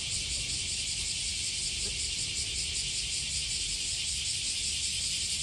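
Chorus of cicadas: a steady, high-pitched pulsing drone, with a low rumble underneath.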